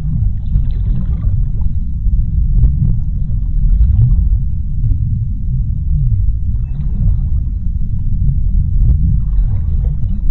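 Underwater ocean ambience: a deep, steady rumble with faint hissy swells and scattered soft clicks.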